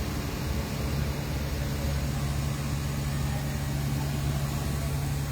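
Boat engine running steadily under way, a low even drone with a constant rushing noise over it.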